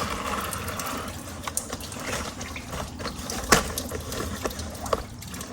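Distilled-water coolant draining out of the truck's cooling system into a container, a steady pouring with a few small clicks and knocks.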